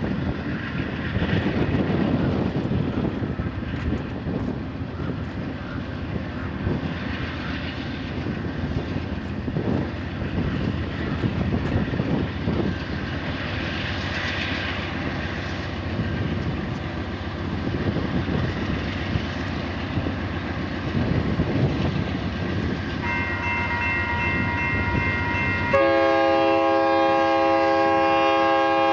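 A set of four BNSF diesel locomotives, which the uploader takes for GE Dash 9-44CWs, working in notch 8 (full throttle) up a steep grade with a heavy rumble. A multi-note locomotive horn sounds faintly about 23 seconds in. It then blows one long, loud chord near the end.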